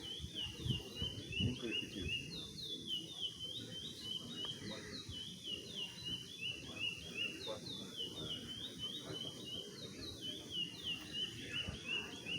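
A caged songbird singing a long, unbroken run of short, quickly repeated high notes, some sliding up and some down, all kept within a narrow pitch range, over a low murmur of background noise.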